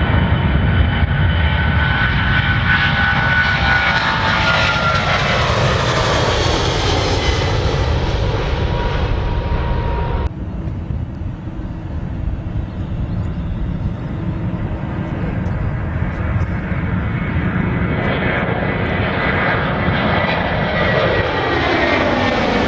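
Jet airliner engines running as an aircraft passes close by, their whine falling in pitch as it goes past. About ten seconds in the sound cuts abruptly to quieter engine noise, then another jet's engines grow louder and their whine falls again as it passes near the end.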